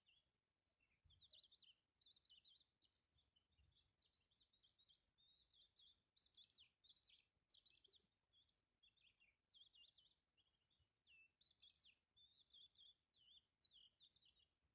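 A bird singing faintly: a long, rambling run of quick chirps and warbled notes with short pauses between phrases.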